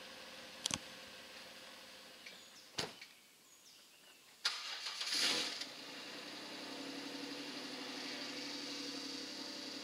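Jeep Wrangler engine cranked and started about four and a half seconds in, flaring briefly and then settling into a steady idle. A few sharp clicks come before it.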